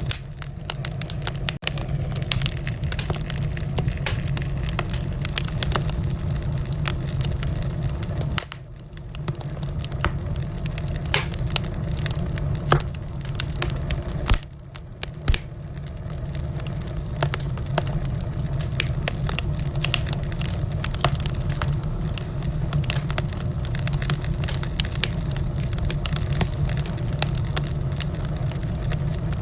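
Wood fire crackling in a fireplace, with frequent sharp pops and snaps over a steady low rumble of the flames. The rumble briefly dips twice, about eight and fourteen seconds in.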